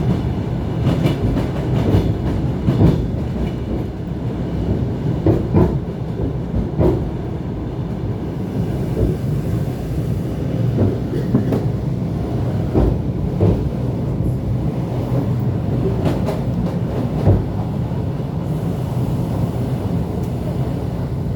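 ET2 electric multiple unit running on the rails: a steady low rumble with irregular knocks from the wheels passing over rail joints.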